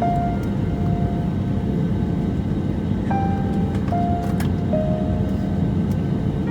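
Steady roar of an airliner's cabin from the engines and airflow, with a slow melody of held notes, most likely background music, playing over it.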